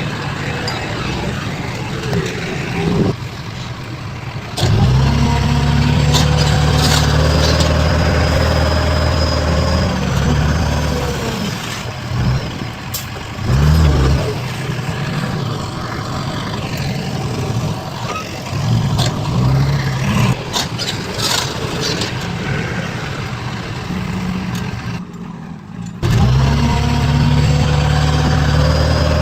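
Heavy diesel engines of construction machinery and trucks running, with a steady low hum that changes abruptly several times as one engine sound gives way to another.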